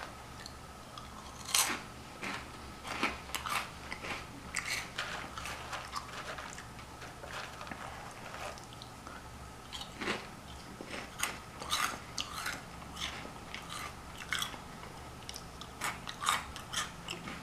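Close-miked crunching and chewing of crisp snack food, with irregular crunchy bites about once a second.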